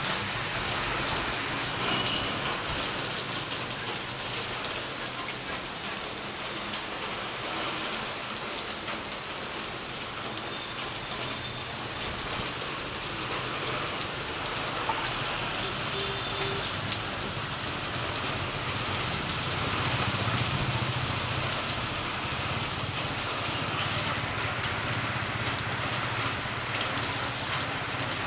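Heavy rain pouring onto a wet paved street, a steady dense hiss of rain on the surface.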